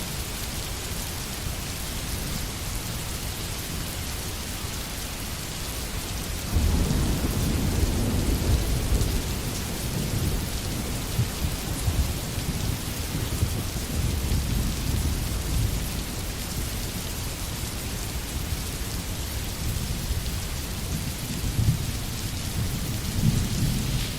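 Steady rain falling, a hiss throughout, with low rolling thunder that comes in about six seconds in and rumbles on in surges to the end.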